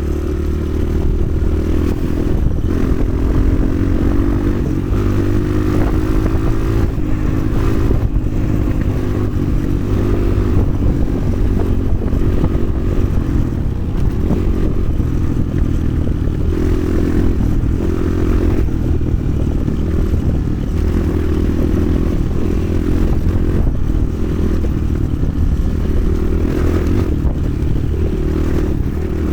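Motoland XR 300 Lite enduro motorcycle engine running under load while riding off-road, its pitch rising and falling over and over as the throttle is opened and closed, over a heavy low rumble with occasional clattering knocks.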